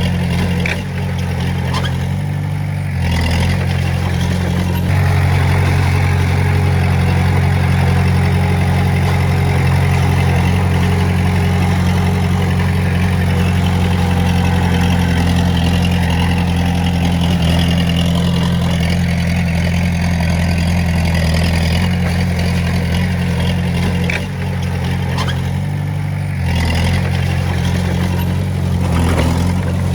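Komatsu D20A bulldozer's diesel engine running steadily under load, its note easing off twice and picking up again.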